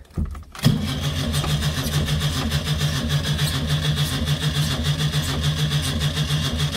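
Škoda 120's rear-mounted 1.2-litre four-cylinder engine catching under the starter less than a second in, then running steadily on a cold start. It is loud and unmuffled, with no silencer fitted and only the short pipes from the exhaust manifold left on. It is heard from the driver's seat.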